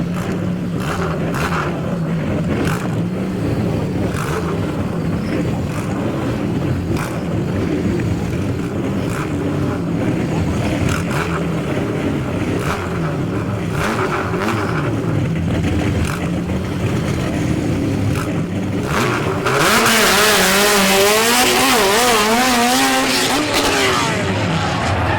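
A drag car's supercharged Honda K-series engine runs at low revs for most of the stretch. About 19 seconds in it goes to a much louder full-throttle run, its pitch wavering up and down, with a harsh hiss over it.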